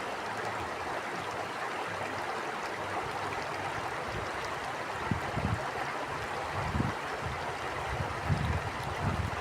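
Stream water flowing steadily with a constant rushing sound. From about five seconds in, irregular low rumbles from gusts of wind on the microphone come and go over it.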